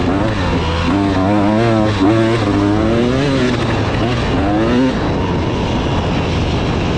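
KTM 300 two-stroke dirt bike engine being ridden, its pitch swinging up and down with the throttle for about five seconds, then running more steadily.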